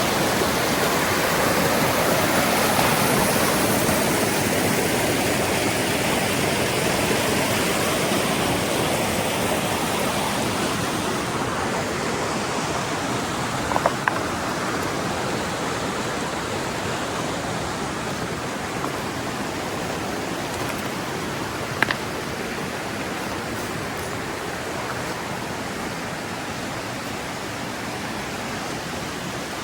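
Rushing mountain river water, a steady wash of noise that slowly grows quieter and loses some of its hiss partway through. Two brief sharp clicks stand out about halfway and near three-quarters of the way in.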